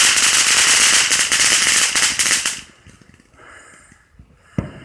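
Consumer firework crackling in a dense, rapid stream of small pops that stops abruptly about two and a half seconds in, followed near the end by a single sharp pop.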